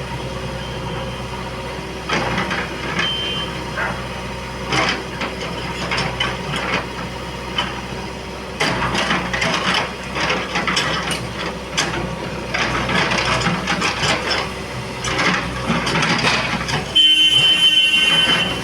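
Heavy digging machinery running steadily, with irregular clanks and scraping knocks over the engine. Near the end a loud, sustained high-pitched tone starts.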